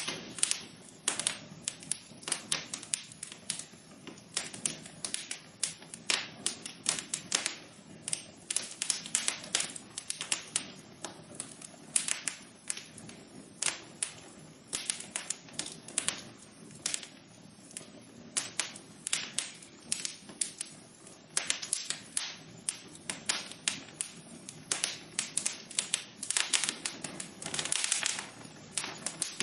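Wood fire crackling in a fireplace: irregular sharp pops and snaps, several a second and uneven in strength, over a soft steady hiss of the flames.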